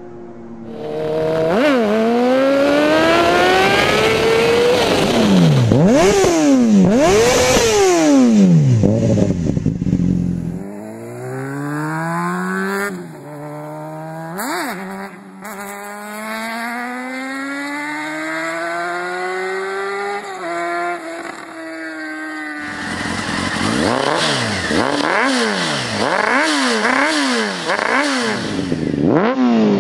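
Honda CBR600RR inline-four engine and exhaust revving hard, its pitch climbing in long rises and then dropping and snapping back up in quick repeated swoops, across three separate clips.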